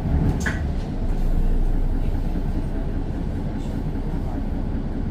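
Mercedes-Benz Citaro O530 bus under way, its Daimler OM906 6.4-litre diesel and the road giving a steady low rumble inside the cabin, with a sharp rattle about half a second in and a few lighter ticks later.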